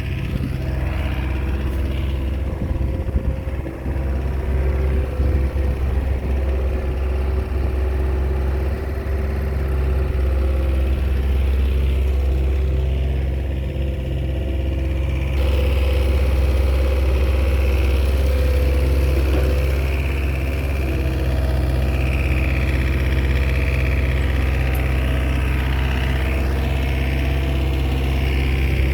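Small Komatsu bulldozer's diesel engine running steadily while working, getting a little louder about halfway through.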